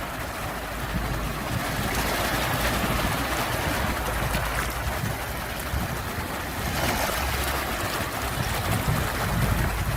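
Sea waves washing ashore: a steady rushing with a swell about two seconds in and another about seven seconds in, over a low rumble.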